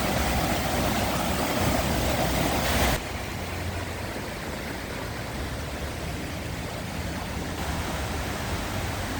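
A river running high and fast after several inches of rain, a steady rushing of water. The level drops suddenly about three seconds in, then holds steady.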